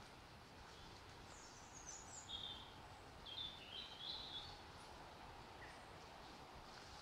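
A small bird calling in short, high chirps, a cluster of several notes from about one to four and a half seconds in, over faint steady outdoor background noise.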